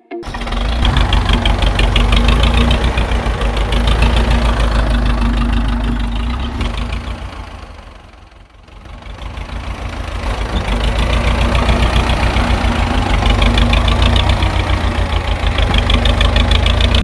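Tractor engine idling with a rapid, even knocking pulse. It fades down about halfway through and then comes back up.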